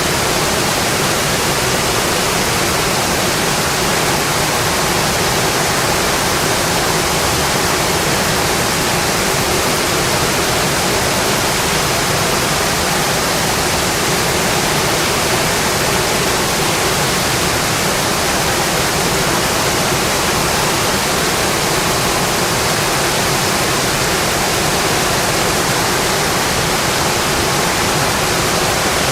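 Rain falling steadily, an even, unbroken wash of noise with no distinct drops or crackles standing out.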